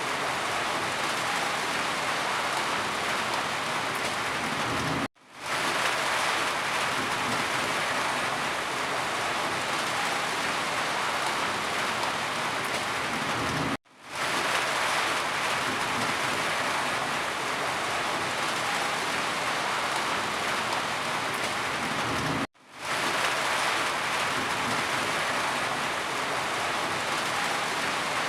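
Steady heavy rain as an even hiss, cutting out suddenly to silence three times, about every eight to nine seconds, and quickly swelling back each time.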